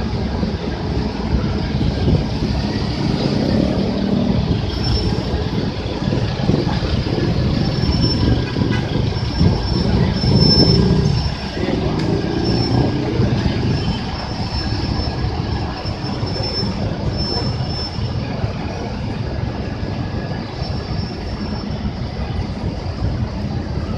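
Transjakarta city buses running at a busway stop: a steady heavy engine-and-road rumble, loudest as a bus passes about ten to eleven seconds in, with a thin high squeal coming and going throughout.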